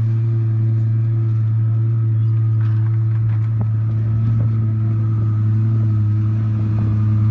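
Twin-turbo Lamborghini V10, an Underground Racing LP1200 build, idling steadily after a cold start, with an even, unchanging pitch and no revving.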